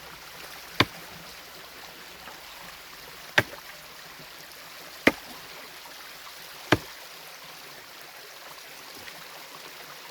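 Four hard strikes on stream bedrock as the rock is broken up, spaced about two seconds apart, over a steadily running mountain stream.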